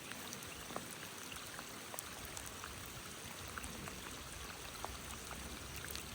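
Creek water running steadily, with scattered light ticks of raindrops throughout.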